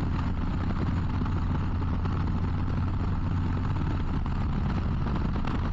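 Harley-Davidson Low Rider ST's Milwaukee-Eight 117 V-twin running at a steady speed on the road, a constant low hum under steady wind and road rush.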